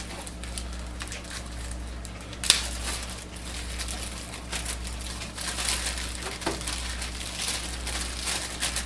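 Wrapping on a printer's documentation package crinkling and rustling as it is handled and opened, with one sharp snap about two and a half seconds in.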